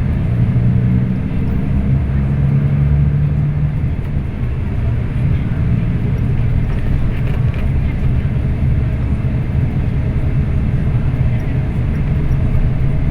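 Scania K340IB coach's diesel engine running on the move: a steady low drone with road rumble.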